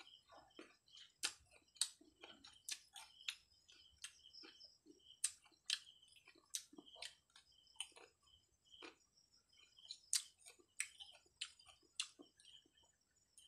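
Close-up chewing of firm, unripe green Indian mango: irregular crisp crunches, about two a second.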